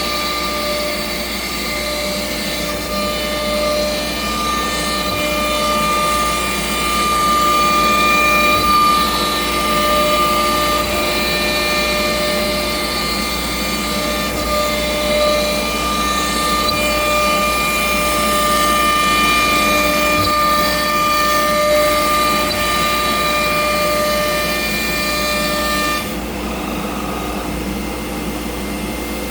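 Altmill CNC router's spindle whining steadily as the bit mills a pocket into a shaker cabinet door, with the hiss of cutting over it. Near the end the cutting noise drops away and the sound gets a little quieter.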